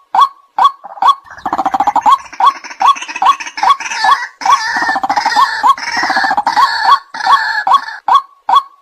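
White-breasted waterhen calling: a steady series of short, loud "kwak" notes, about two to three a second. From about a second and a half in until about seven seconds they swell into a denser stretch of harsh, rapid croaking and grunting.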